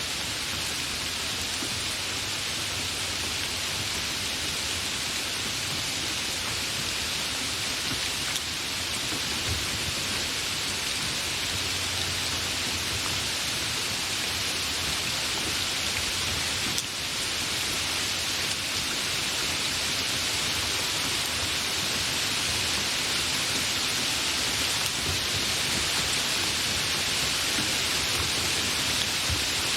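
Steady, continuous rain: an even hiss of falling drops with no breaks.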